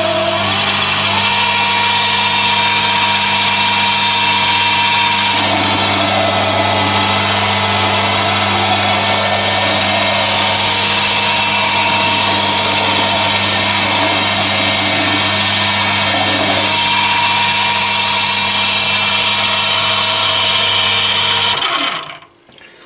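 Chinese mini lathe running steadily, its motor and gears making a loud drone of several steady tones, while a carbide-tipped tool cuts the spinning workpiece. A rougher hiss joins for about ten seconds in the middle, and the lathe is switched off about a second before the end, the sound falling away quickly.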